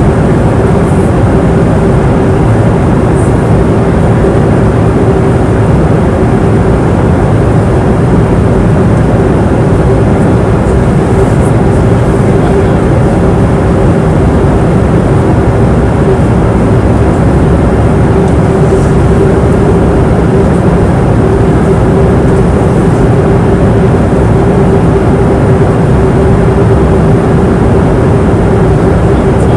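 Airliner cabin noise in flight: a steady, loud rush of engine and airflow noise with a constant droning tone running through it.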